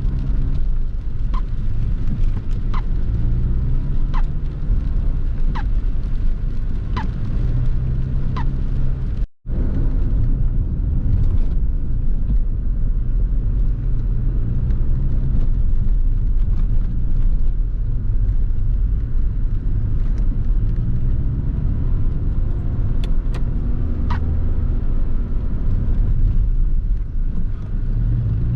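1993 SAAB 900 Turbo S's 2.0-litre turbocharged 16-valve engine running while driving, heard from inside the cabin with steady road rumble. Light clicks come about every one and a half seconds through the first eight seconds.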